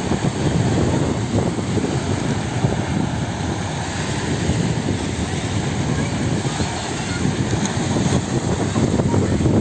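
Wind buffeting the microphone at the seashore, a dense, ragged low rumble with no letup.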